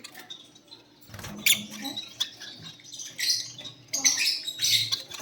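Lovebirds chattering in short, scratchy bursts of chirps that begin about a second in and grow busier in the second half.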